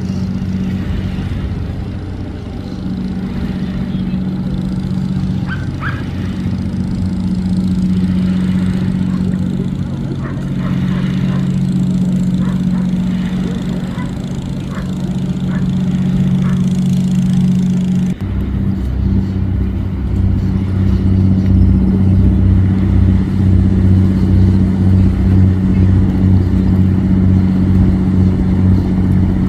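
Boat engine running with a loud, steady low drone; about two-thirds of the way through, the note changes abruptly to a lower, pulsing beat.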